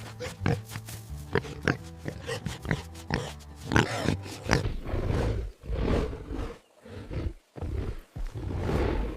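Big cat roaring and growling in a string of rough calls. The first few seconds hold sharp clicks over a low hum.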